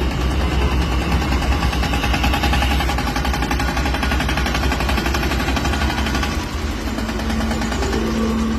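Single-cylinder engine of a 20 hp Indo Farm mini tractor running with a rapid, even chugging beat.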